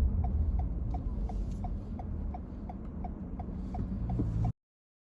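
Car turn signal ticking about three times a second inside the cabin, over the low rumble of the moving car. Both cut off suddenly near the end.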